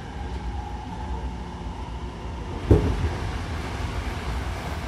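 Hankyu commuter train heard from inside the car beside its closed doors: a steady low rumble, broken by one sharp knock a little under three seconds in.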